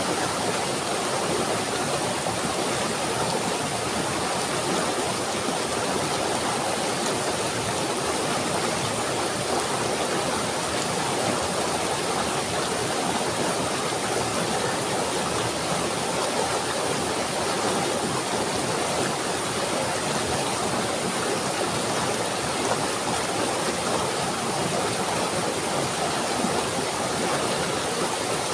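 Running water flowing in an even, unbroken rush.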